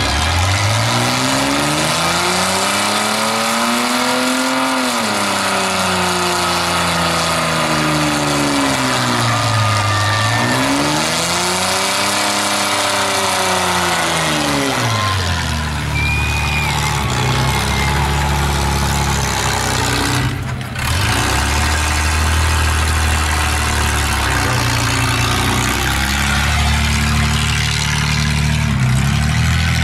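Holden VR Commodore's 3.8-litre V6 revving hard through a burnout, over the noise of the spinning rear tyres. The revs rise and fall twice in the first half, then hold high and steady, with a brief drop about twenty seconds in.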